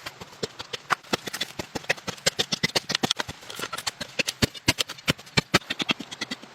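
A rapid, irregular run of sharp knocks and clicks, several a second, with a few heavier strikes in the second half.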